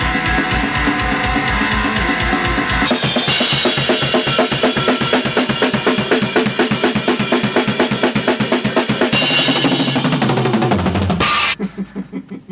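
A heavy rock or metal band track with a full drum kit, bass and guitars: a steady pulsing riff at first, then fast, dense drumming with cymbals from about three seconds in. It stops abruptly near the end, leaving a few ringing hits.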